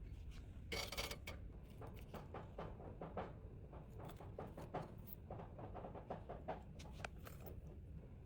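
Small items and packaging being handled: a run of light rustles, taps and clicks, busiest about a second in, over a faint steady hum.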